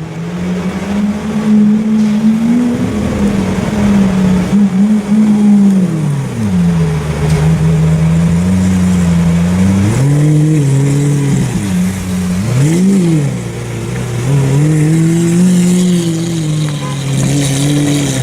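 Lamborghini Aventador's V12 engine, loud through its aftermarket iPE exhaust, running and being revved. Its pitch holds, drops, climbs again, and near two-thirds of the way through gives one quick blip up and back down.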